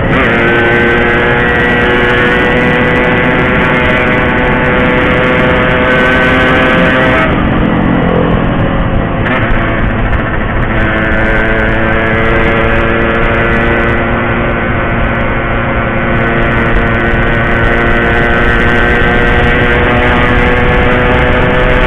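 Yamaha RX-King's 135cc two-stroke engine pulling hard under full throttle. Its pitch drops at a gear change right at the start, then climbs steadily. Another change comes about seven to ten seconds in, after which it climbs again.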